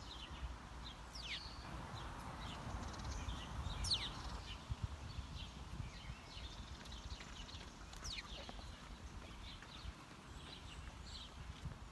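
Wild birds calling: three loud, steeply falling whistled calls about four seconds apart, among many short, high chirps, over a low outdoor rumble.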